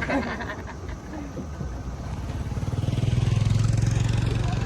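A motor vehicle's engine running, a low hum that grows louder from about two seconds in and then holds steady.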